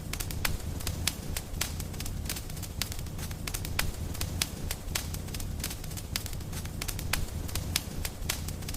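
Wood fire in a fireplace crackling, with many sharp irregular pops over a low, steady rumble of the flames.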